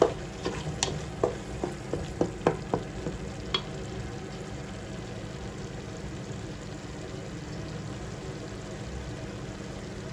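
Spatula stirring curry spice paste frying in a pan, knocking and scraping against the pan a dozen or so times in the first few seconds, then a steady low sizzle as the paste cooks over a lowered flame.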